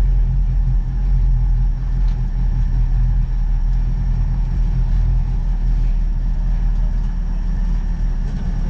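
Suzuki Hayabusa inline-four engine in a KP61 Starlet idling: a steady low rumble with no revving, heard from inside the car.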